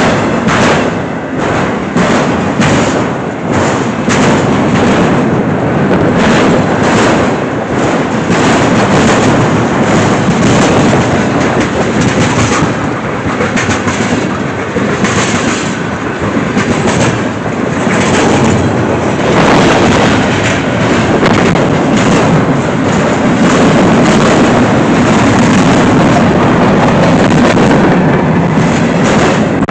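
Norfolk Southern freight train's autorack and tank cars rolling past: loud, steady noise of steel wheels on the rails, with many sharp clicks as the wheels cross rail joints.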